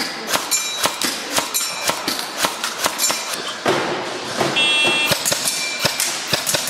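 A steady run of sharp clicks or knocks, about two a second, some with a brief high metallic ring. A short high ringing tone sounds a little past the middle.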